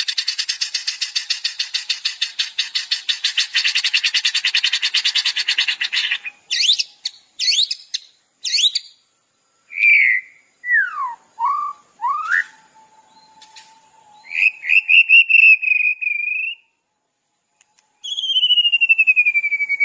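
Recorded songbird calls played as tutor song for training cagebirds. A fast buzzing trill lasts about six seconds, followed by separate whistled chirps and falling notes, a short warbling phrase, a brief pause, and a descending trill near the end.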